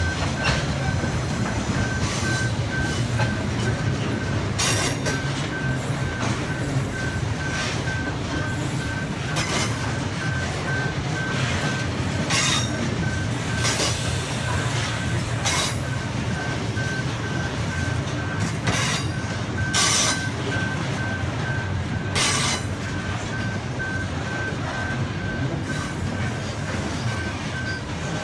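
Grain train of covered hopper wagons rolling past: a steady rumble of wheels with irregular sharp clacks over the rail joints. Above it a high beeping repeats throughout, typical of a pedestrian crossing alarm.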